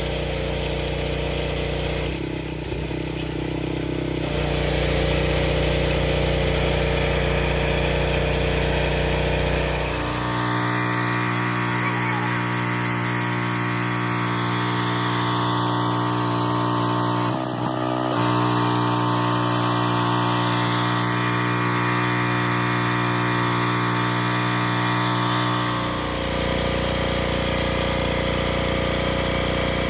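Pressure washer engine running steadily. Its tone changes from about ten seconds in until a few seconds before the end, then returns to the earlier sound.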